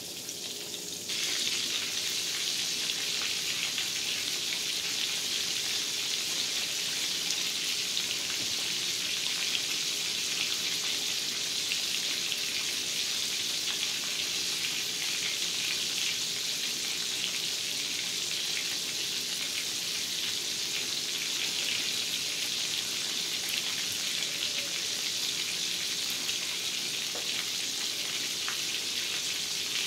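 Flour-coated pork chops frying in hot oil in a cast-iron skillet: a steady sizzle that gets louder about a second in.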